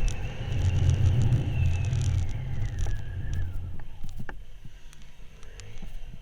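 Motorcycle running under way, with a whine that falls in pitch as it slows about three seconds in. After that it is quieter, with light scattered clicks.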